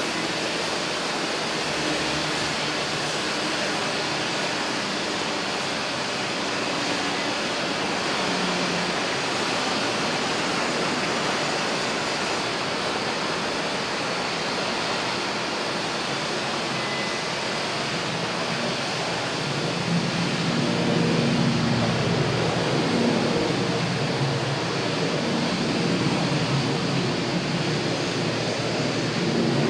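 Steady rushing noise of aircraft engines, growing a little louder about twenty seconds in as wavering engine tones come in.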